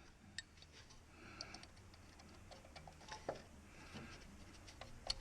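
Faint, scattered small clicks and taps of tools and parts being handled, with a few sharper clicks about three seconds in and near the end.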